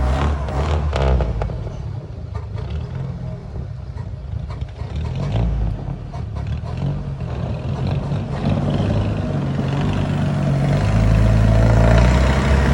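Boat engine running with a low drone that builds louder toward the end, as if picking up speed. A few knocks and clatter are heard in the first second or so.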